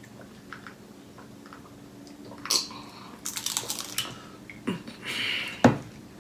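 Close-up eating sounds: faint mouth clicks, then crisp crunching and chewing starting about two and a half seconds in, with several sharp clicks, as a mouthful of nacho salad with tortilla chips is bitten and chewed.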